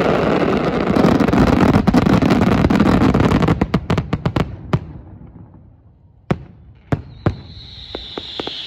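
Fireworks display: a dense barrage of shell bursts and crackle that thins into separate bangs and dies down about five seconds in. Then three single sharp bangs, and crackling builds again near the end.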